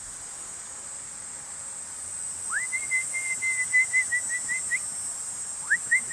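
Two clear whistled calls, each a quick upward sweep followed by a quick run of short repeated notes at one pitch, about two and a half seconds in and again near the end. Under them runs a steady high buzz of crickets.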